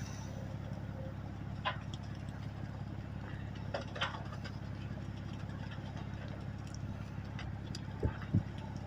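A vehicle engine idling steadily, with a couple of faint clicks and two short low knocks near the end.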